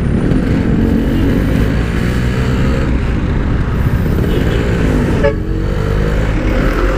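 Yamaha RX-King two-stroke single-cylinder motorcycle engine running under way in traffic. Its pitch drops about four seconds in, then climbs again from about five seconds in as the bike pulls away once more.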